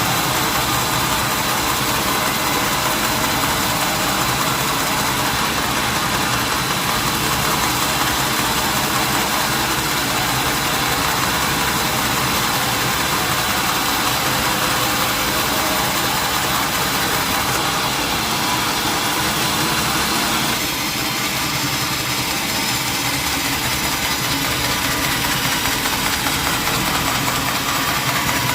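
Engine-driven sawmill machinery running steadily, dipping a little in level about two-thirds of the way through.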